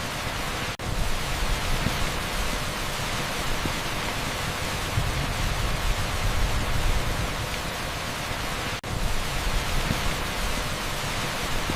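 Torrential rain on an asphalt street: a dense, even hiss with a low rumble underneath. It cuts out for an instant twice, about a second in and again about three seconds before the end.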